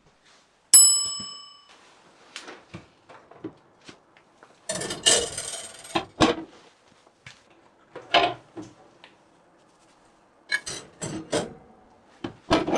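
Metal parts being handled on a workbench: one ringing metallic ding about a second in, then scattered clicks and knocks with a short scraping rustle in the middle.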